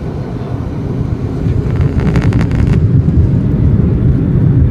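Low rumble in the cabin of a Boeing 737-800, growing steadily louder, with a brief fast rattle about two seconds in.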